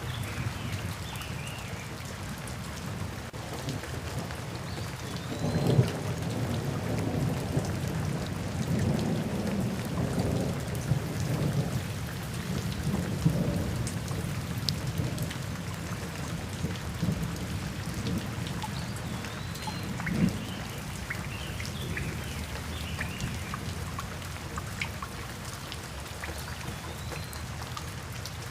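Steady rain with rolling thunder. A low rumble builds about five seconds in and rolls on for several seconds, and a sharper peal comes about twenty seconds in.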